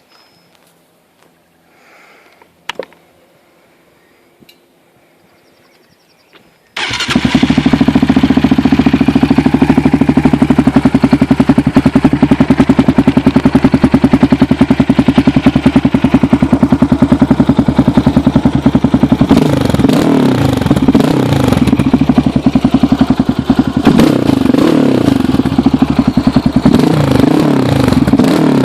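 Yamaha Raptor 700 single-cylinder four-stroke ATV engine with Hotcams stage 2 cams and a Barker's dual exhaust, starting abruptly about seven seconds in and idling loudly with an even thumping beat. In the last several seconds the throttle is blipped repeatedly, the revs rising and falling.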